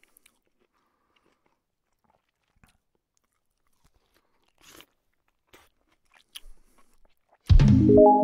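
A person chewing a mouthful of chicken biryani eaten by hand, heard as faint scattered clicks. Near the end, a loud musical jingle with a deep boom starts suddenly.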